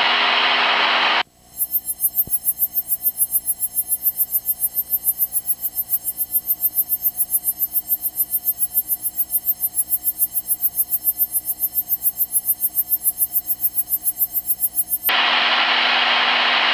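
Cockpit audio of a Cessna 172 in flight: the steady engine noise heard through the intercom cuts out abruptly about a second in. It is replaced by a rapid electronic pulsing buzz of several steady tones, about five pulses a second. The steady noise returns shortly before the end.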